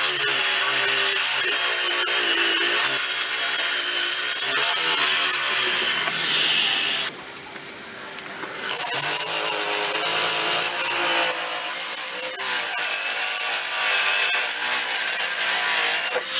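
Electric buffer fitted with a 50-grit stripping disc grinding body filler off a car body panel, its motor pitch wavering under load. It cuts out for about a second and a half near the middle, then runs again.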